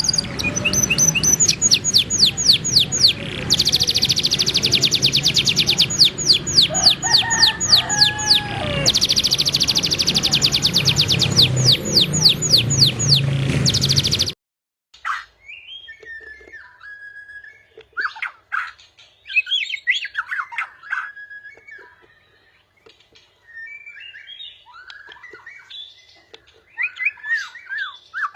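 Caged songbirds singing. First comes a loud, fast, high trill of rapidly repeated notes over a low background hum. About halfway it cuts off suddenly to a different recording of quieter, varied whistled phrases with pauses between them.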